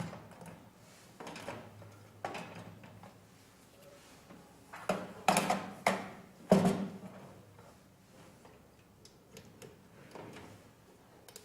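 Knocks and clunks of phone-case molds being set on the work table of a 3D sublimation heat-press machine. A few scattered knocks come early on, then a cluster of louder clunks about halfway through.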